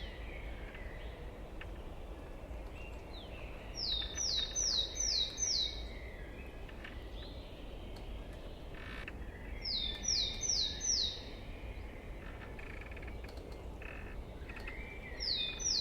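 Songbird singing a short phrase of four or five quick, high, downward-slurred notes, repeated about every five to six seconds, with fainter bird chirps in between.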